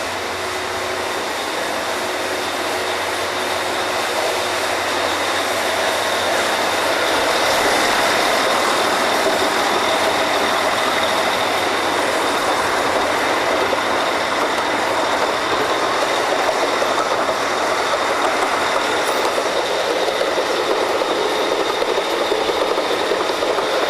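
Steady, loud drilling-rig machinery noise that grows louder over the first several seconds and then holds, with a faint high whine running through it.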